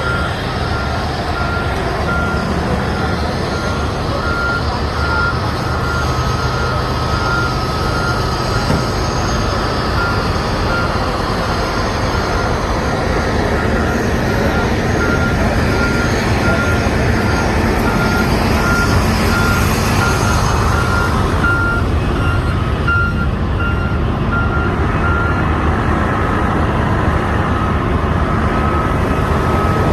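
A truck's reversing alarm beeping over and over at one pitch, over a steady engine rumble and street noise; the beeping stops a few seconds before the end.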